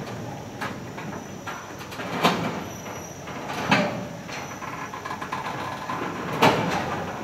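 Heavy freight train's tank cars rolling slowly past on a grade, with a steady rumble and three sharp clanks from the wheels and couplings, about a second and a half and then three seconds apart. A faint wheel squeal comes and goes. The train is laboring up the hill at a crawl.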